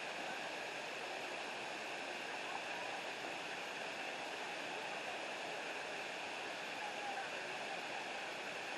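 Steady rush of a waterfall and creek water.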